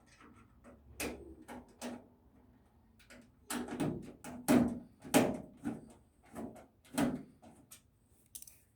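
Irregular knocks and clacks from a desktop computer case and its parts being handled, loudest and most frequent in the middle.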